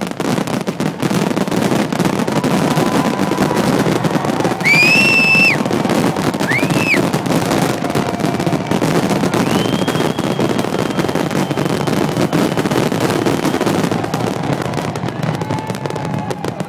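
Loud fireworks display: a dense, continuous crackling of bursting shells, with two short shrill whistles about five and seven seconds in.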